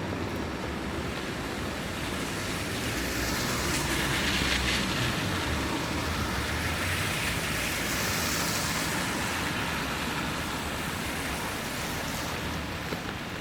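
Wet city street in the rain: a continuous hiss of rain and tyres over a low traffic rumble, swelling twice, about four and eight seconds in, as vehicles pass.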